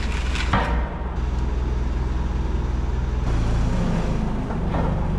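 Forklift engine running steadily, with a single metallic knock about half a second in and the engine note rising slightly about three seconds in.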